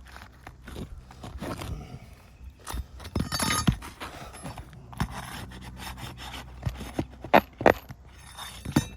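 Asphalt shingle scraping against the shingles and fasteners as a new shingle is pushed up under the course above, with sharp clicks and knocks, the loudest a pair near the end. The shingle is catching on an old staple left in the roof.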